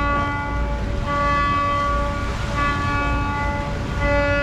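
A horn sounding a series of steady blasts, each about a second long with short gaps between them.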